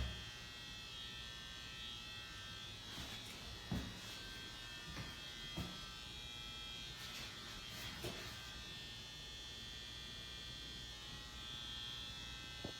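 A steady electrical buzz with a high whine, with a few faint knocks.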